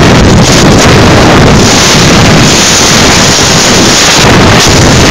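Motorcycle engine noise, very loud and overloaded on the recording, with no clear pitch or change.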